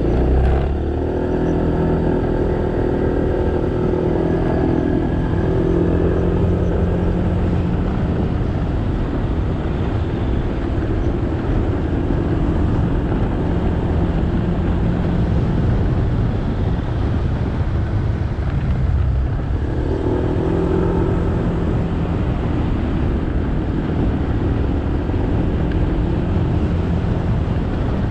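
Motorbike engine running while riding, over steady road and wind noise. The engine note stands out more strongly twice, over the first several seconds and again about two-thirds of the way through.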